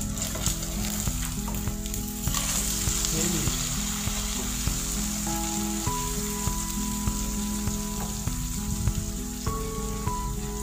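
Egg omelet sizzling as it fries in a non-stick frying pan, with a wooden spatula stirring and turning it against the pan. The sizzle gets louder about two seconds in.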